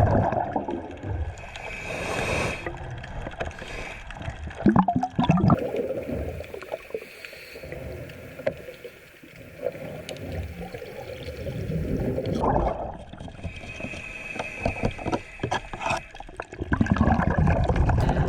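Underwater bubbling and gurgling with irregular clicks and knocks, the sound of a scuba diver at work scraping barnacles off a boat hull.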